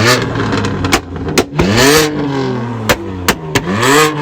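A car engine revved hard about three times, its pitch climbing and falling back each time, with several sharp cracks between the revs.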